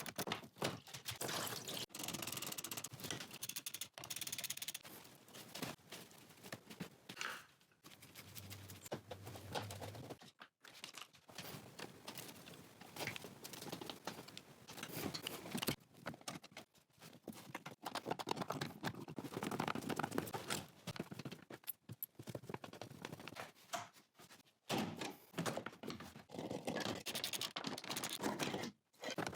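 Workshop dismantling noises: knocks, clinks and scrapes of hand tools and metal parts, in a small room, chopped into many short pieces with abrupt cuts between them.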